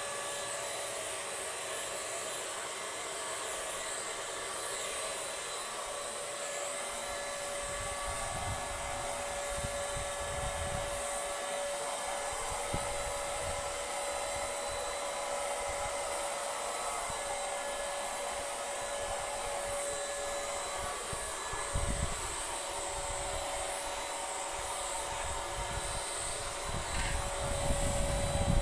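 Handheld electric Paint Zoom sprayer running steadily: a continuous motor whine and air hiss with a steady hum, and some low bumps and rumbles from about a third of the way in.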